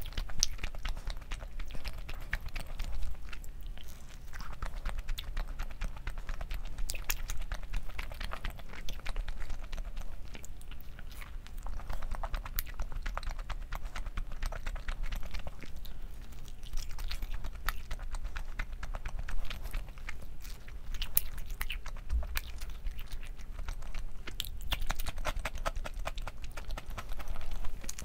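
Close-miked chewing and biting of food, with a dense run of small wet clicks and smacks.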